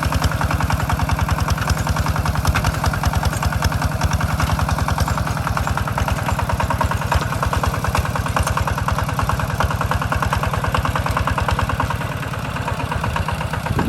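Walk-behind two-wheel tractor engine running steadily with a fast, even chugging beat, easing off slightly near the end.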